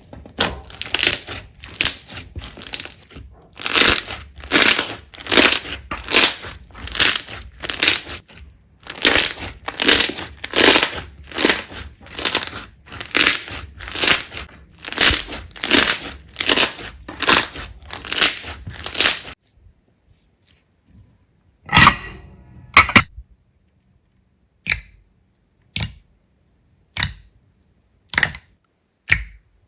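Slime being squeezed and pressed by hand, a crackly squish about twice a second; about two-thirds of the way through it stops, and two loud sharp pops are followed by lighter clicks about once a second.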